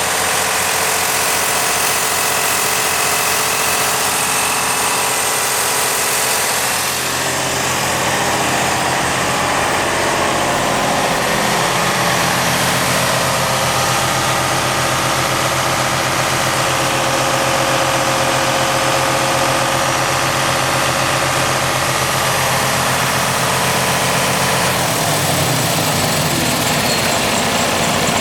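Detroit DD15 14.8-litre inline-six diesel engine idling steadily, its tone shifting about seven seconds in and again near the end.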